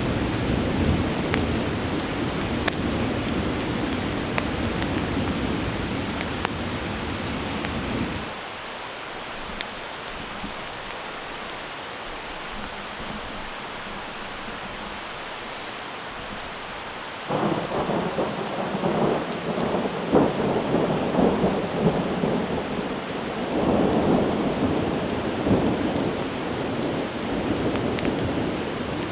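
Heavy rain falling steadily, with thunder: a low rumble that dies away about a quarter of the way through, then a sudden loud clap of thunder just past halfway that rolls on in rumbling waves.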